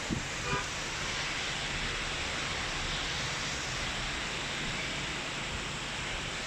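Steady rain falling, an even hiss, with a brief faint pitched sound about half a second in.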